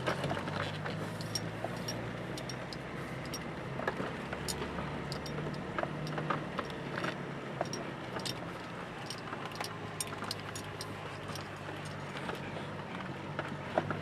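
1995 BMW E34 525tds's straight-piped M51 2.5-litre six-cylinder turbodiesel idling steadily, with scattered light ticks and clicks over the low exhaust note.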